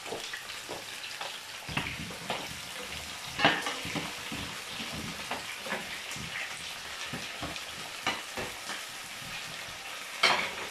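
Chicken pieces sizzling in oil in a frying pan, a steady hiss broken by scattered clicks and knocks of a utensil against the pans.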